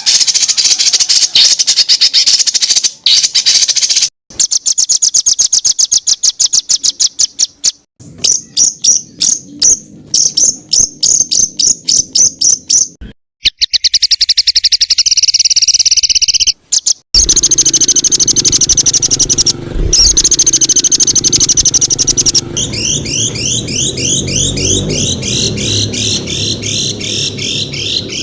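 Songbirds singing in rapid-fire runs of repeated high notes, several different song phrases spliced one after another with abrupt cuts every few seconds; the last phrase is a fast series of rising sweeps.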